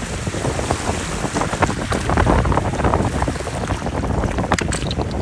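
Wind buffeting the microphone on a lakeshore, with waves washing in and scattered short clicks and splashes.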